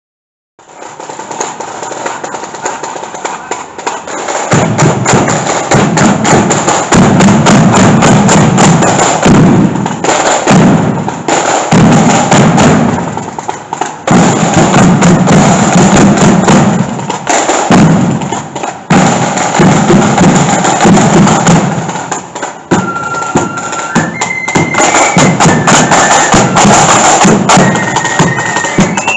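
Marching flute band playing, with snare drums and a heavy bass drum beat that comes in strongly about four seconds in. A high flute melody stands out clearly near the end.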